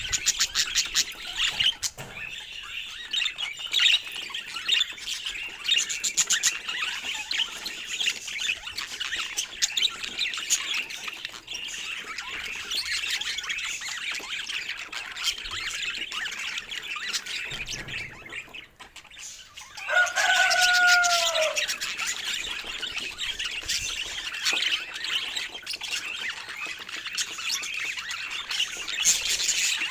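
Budgerigars chattering and warbling, several birds twittering at once without pause. About two-thirds of the way through the chatter drops away briefly, then resumes louder with a single lower, curving call.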